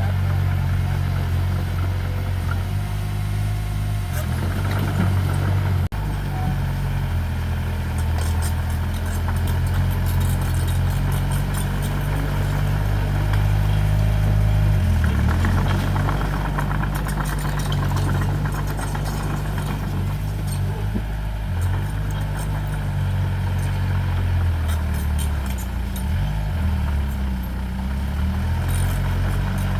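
Diesel engine of heavy earthmoving machinery running steadily, its speed dipping and picking up again a few times as it works, with light clicking over it.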